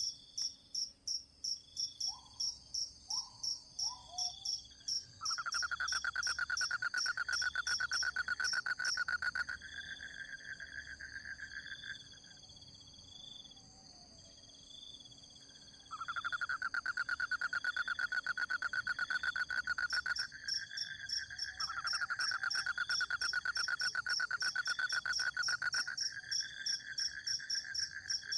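Forest insects at night-time chorus: crickets chirping in a steady, rhythmic high pulse. A lower, continuous buzzing trill starts about five seconds in, fades and stops around twelve seconds, then comes back strongly from about sixteen seconds. A few short falling calls sound near the start.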